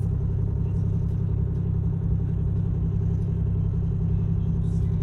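A boat's engine running steadily at low ahead power, a constant low rumble with a fast, even throb.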